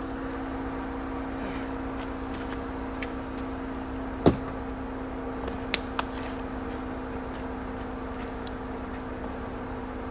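Jeep Comanche pickup idling with a steady, even hum. There is one sharp knock about four seconds in, and two lighter clicks a moment later.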